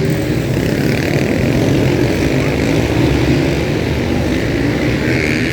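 Several supermotard motorcycle engines running together, their pitches drifting slowly up and down as they rev.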